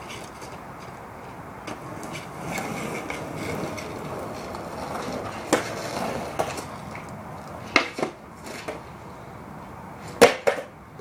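Skateboard wheels rolling over rough wet pavement, followed by several sharp clacks and knocks of the board, the loudest a double clack near the end.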